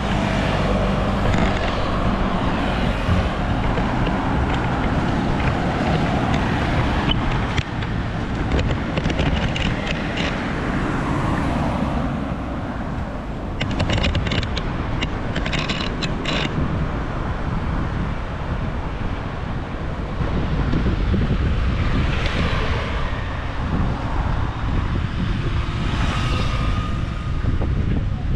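Road traffic going past, with wind buffeting the microphone of a moving bicycle. A run of sharp clicks comes about halfway through.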